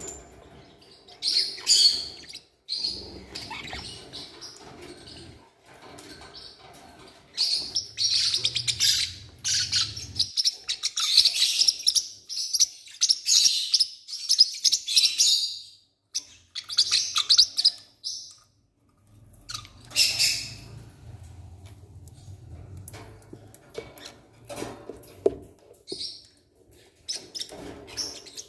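Newborn forpus parrotlet chicks peeping in high-pitched chirps that come in bouts, one of them running on for several seconds, with brief pauses between.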